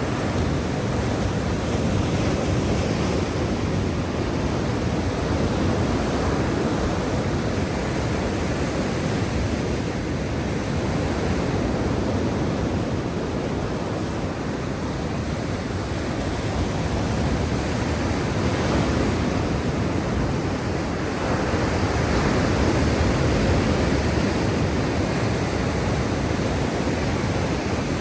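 Black Sea waves washing in a continuous rush of surf, swelling and easing slowly every few seconds.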